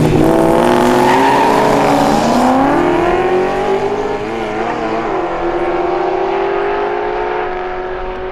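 Two V8-era muscle cars, one a Holden Torana, racing off the line and accelerating hard down the strip, their engine notes climbing through the gears with dips at the shifts, then holding steadier and fading as they pull away.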